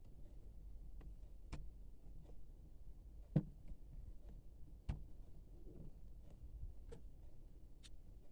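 Packaging and items being handled: a few scattered soft taps and clicks, the loudest about three and a half seconds in, over a faint low hum.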